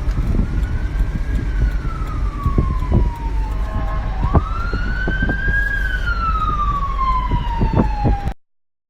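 Emergency vehicle siren in a slow wail, its pitch rising and falling twice, over a low rumble with scattered knocks. The sound cuts off abruptly near the end.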